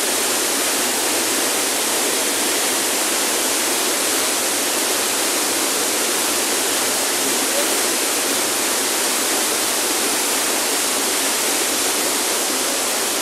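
Waterfall: a steady, loud rush of falling water that never lets up.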